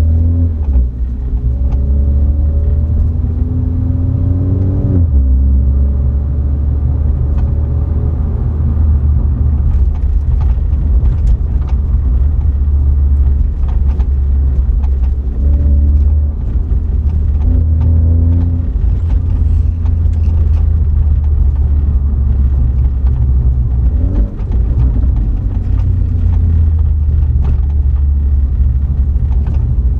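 BMW 330i's B48 2.0-litre turbocharged four-cylinder engine and exhaust while driving: a deep drone whose pitch climbs under acceleration and drops sharply at gear changes, several times over.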